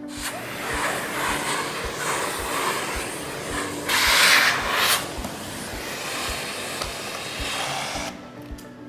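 Miele Blizzard CX1 bagless vacuum cleaner running, a steady suction hiss that swells louder for about a second around four seconds in and stops about eight seconds in.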